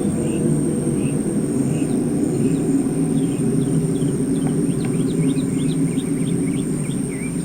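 A loud, steady low rumbling drone of the kind reported as an unexplained 'strange sound' in the sky, with small birds chirping over it and a steady high insect-like whine.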